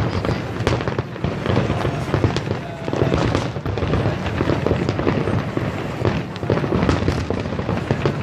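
Fireworks display going off: a dense, continuous run of rapid bangs and crackling.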